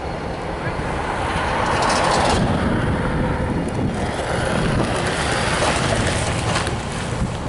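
Heavy vehicle noise: a rolling rumble with no clear engine tone. It grows louder about a second in and then holds steady.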